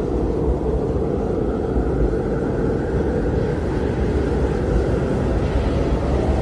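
Blizzard wind blowing steadily: a low, even rush of noise.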